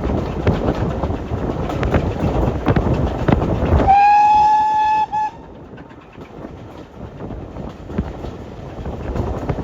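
Steam train running with a loud rumble and clatter; about four seconds in, its whistle sounds for about a second, rising slightly at the start, with a short second toot. After that the rumble falls away to a quieter background.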